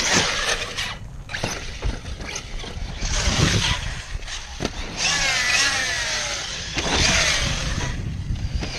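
Electric 6S RC basher running over rough ground: its brushless motor whines, gliding down and up in pitch around the middle, over a steady rush of tyres and dirt with a few sharp knocks.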